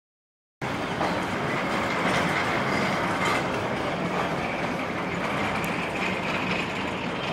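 Passenger train coaches running across a steel rail bridge, heard from aboard: a steady, loud rolling noise of wheels on rails with faint irregular clicks. It cuts in abruptly about half a second in.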